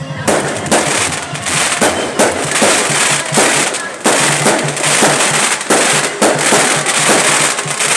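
Fireworks going off in rapid succession: a dense string of sharp bangs, several a second, with crackling between them.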